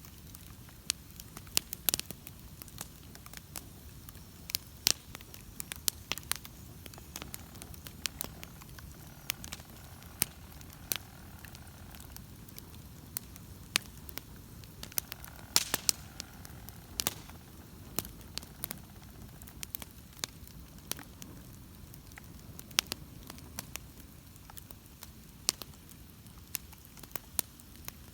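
Wood bonfire burning, with irregular sharp crackles and pops over a low steady rumble of the flames; a few pops stand out louder, the strongest about halfway through.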